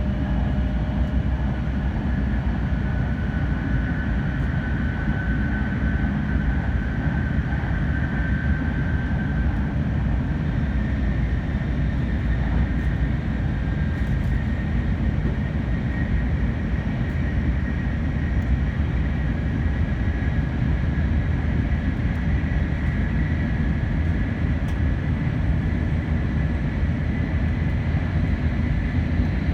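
N700 series 8000-number Shinkansen running at speed, heard from inside the passenger car: a steady deep rumble of wheels and track, with a high whine that drifts slowly in pitch.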